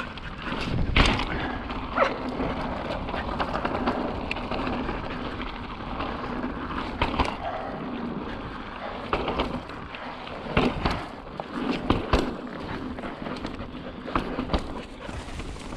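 Mountain bike rolling fast over slickrock: a steady rush of tyre and wind noise on the helmet camera, broken every second or two by sharp knocks and rattles as the bike hits bumps in the rock.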